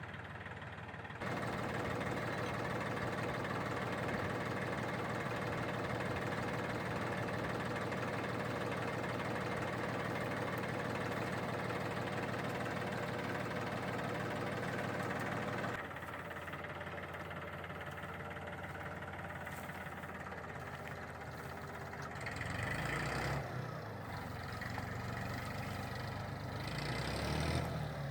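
Massey Ferguson tractor engine running steadily, stepping up in level about a second in and dropping back about halfway through, then working harder again for a few seconds near the end.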